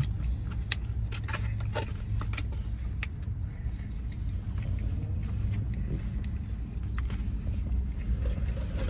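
Chewing and scattered clicks of a plastic fork against a plastic takeout bowl, over a steady low vehicle rumble.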